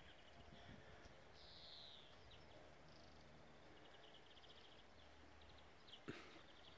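Near silence outdoors, with faint high-pitched bird calls: a falling call, then rapid trills, and one short knock near the end.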